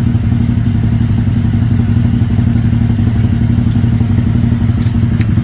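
Can-Am Spyder RT's engine idling steadily through its aftermarket GPR muffler, a constant low, pulsing exhaust note.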